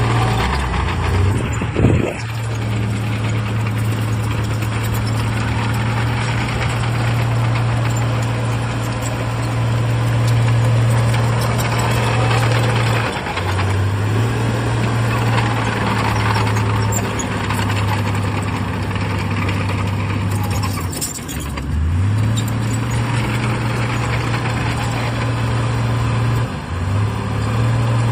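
Heavy earthmoving machine's diesel engine running steadily. Its pitch drops and climbs back a few times as the revs change, with a single metallic knock about two seconds in.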